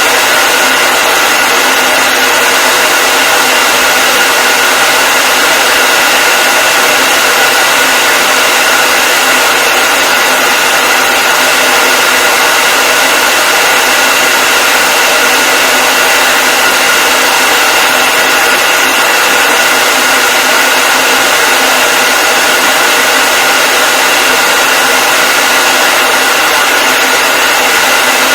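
Hair dryer running continuously at a steady speed: a constant airflow rush with a steady motor whine, unchanging throughout.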